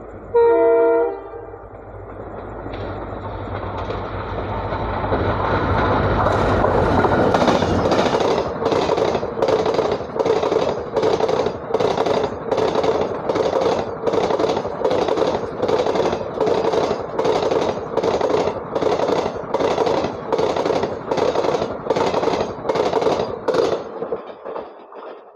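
Diesel-hauled express train running through at speed. It gives one short horn blast about half a second in, then the locomotive's engine rumble builds as it approaches. The coaches then rush past with a steady clickety-clack of wheels over rail joints, about one and a half beats a second, which dies away near the end.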